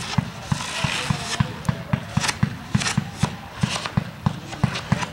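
Professional fireworks firing a rapid, even volley of shots, about three or four launch thumps a second.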